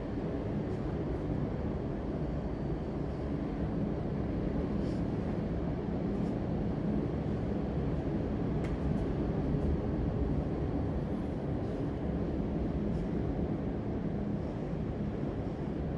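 Steady low rumbling background noise with a faint hum, broken only by a few faint ticks.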